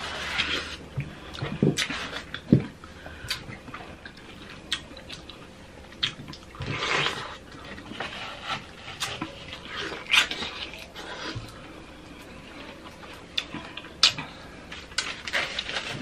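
Eating juicy fruit, watermelon and pineapple: wet bites, chewing, smacking and slurping as many irregular short crunchy clicks, with a few longer juicy bursts.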